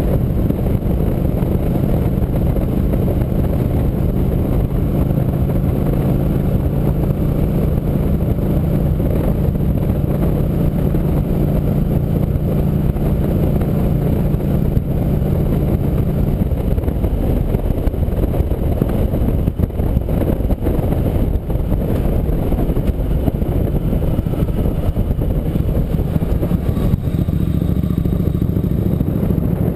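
Motorcycle engine running steadily under way. About halfway through its steady note drops back into a rougher, noisier sound, and the steady note returns near the end.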